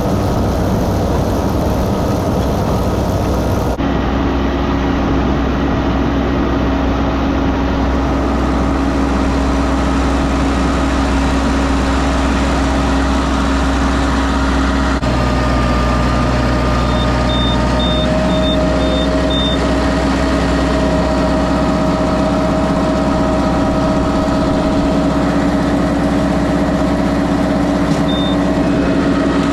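Tractor engine running steadily with a constant low drone. A few faint, short high beeps come about two-thirds of the way through.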